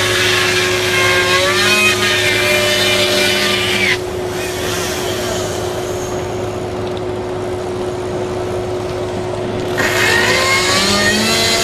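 A motor vehicle engine runs with a steady hum, while gliding tones and a dense, noisy layer drop away about four seconds in and come back near the end.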